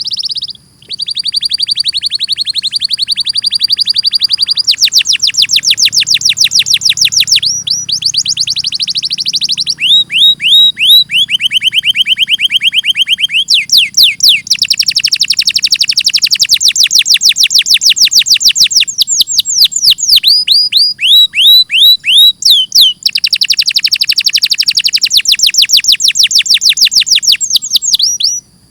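Domestic canary singing a long run of fast trills: each series of rapidly repeated notes holds for a few seconds, then switches to another, some notes rising and others falling in pitch. The song stops abruptly near the end.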